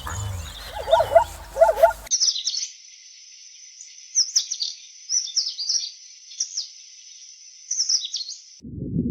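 A few short pitched animal calls in the first two seconds, then small birds chirping in quick, high, downward sweeps for about six seconds, cut off suddenly. A low rumbling noise starts just before the end.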